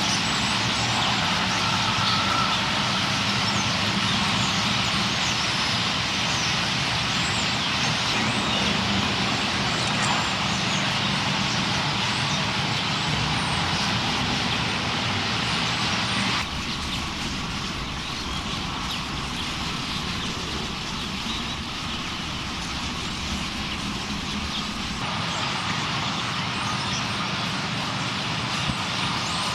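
Dense, continuous chatter of a huge flock of purple martins over a steady rumble of road traffic. The mix changes abruptly about sixteen and again about twenty-five seconds in.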